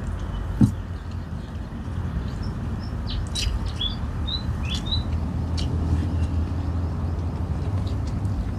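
Small birds chirping several times over a steady low rumble, with a single knock about half a second in.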